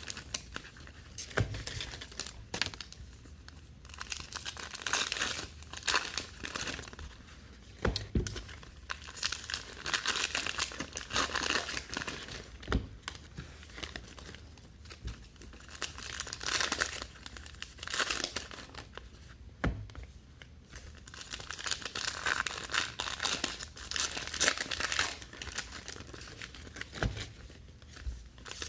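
Trading-card pack wrappers crinkling and tearing as packs are ripped open, in repeated bursts with short pauses, with a few sharp clicks of cards being handled.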